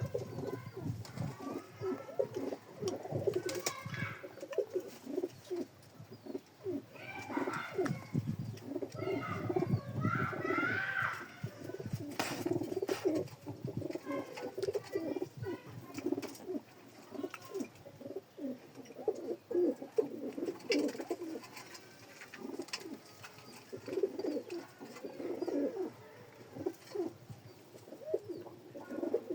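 Domestic pigeons cooing in a steady run of low, repeated coos, with some higher chirping calls in the first half.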